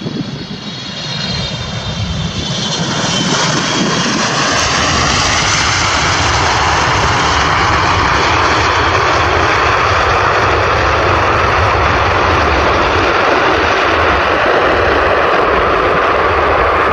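Aircraft engines running loud: the roar swells over the first few seconds, then holds steady with a faint wavering whine on top.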